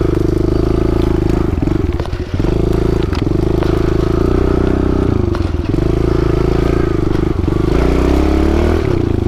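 Small dirt bike engine running at steady revs, with the throttle cut briefly several times, then revving up with rising pitch near the end.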